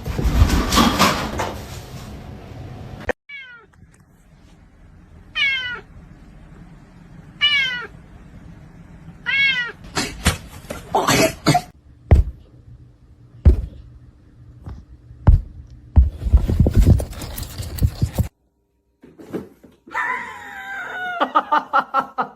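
Domestic cat meowing four times, about two seconds apart, with knocks and clatter after the meows.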